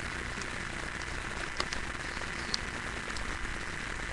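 Steady hiss, with a few soft ticks of a sheet of paper being handled and folded.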